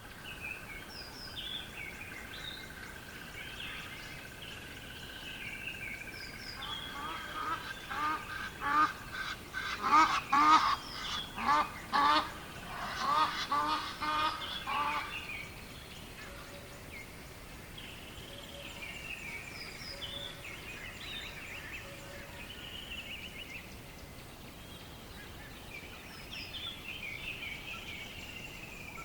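Birds calling: a loud run of rapid, repeated calls in the middle, over high chirps from small birds that come and go throughout.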